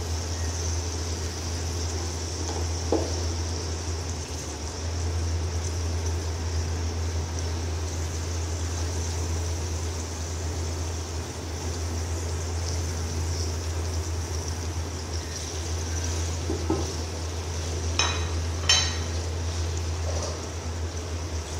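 Tomato wedges sizzling steadily in hot oil in a steel pot. A few light knocks of a wooden spoon against the pot, two of them close together near the end.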